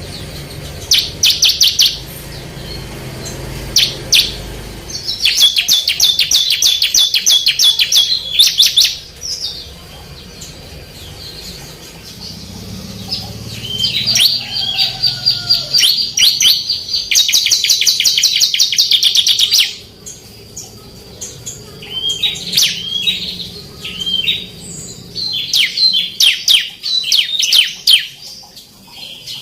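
Bar-winged prinia (ciblek) singing vigorously: long bursts of rapid, high, repeated chirping notes, broken by short pauses.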